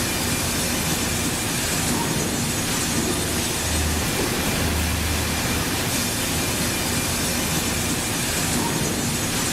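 Sawmill machinery running: a steady mechanical rumble and rush of noise, with a low hum that swells a few times.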